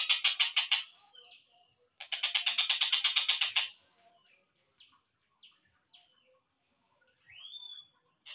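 Tengkek buto (kingfisher) call played back slowed down: a fast series of harsh rattling notes, in two bursts, followed by scattered short chirps and a rising whistle that levels off near the end.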